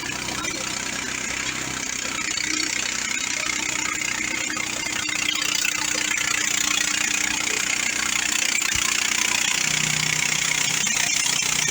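The 420cc gasoline engine of a Mechmaxx bandsaw mill running steadily while its band blade runs through a log.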